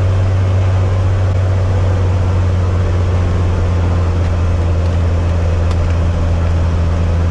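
Cessna 185 Skywagon amphibian's piston engine and propeller running steadily at low taxi power, a loud, even low drone.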